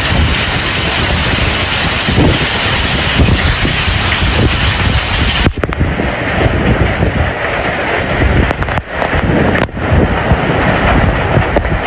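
Storm noise: wind buffeting the microphone over a loud, steady rush. About five and a half seconds in the sound changes abruptly and loses its high hiss.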